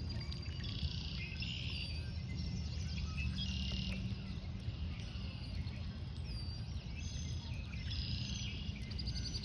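Several songbirds chirping and trilling, with short repeated high calls throughout, over a steady low rumble.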